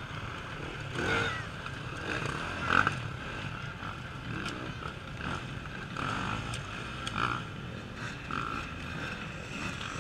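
Off-road motorcycle engines revving in surges as racers work through the course, rising and falling every second or two.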